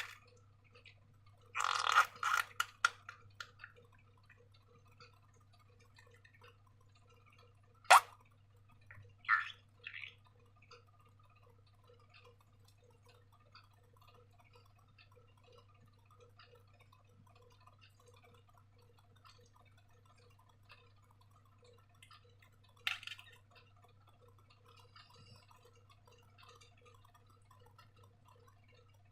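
Slime being handled: a quick run of wet clicks and squelches, a single sharp snap, a few smaller sticky sounds, then long quiet stretches. A steady low hum runs underneath.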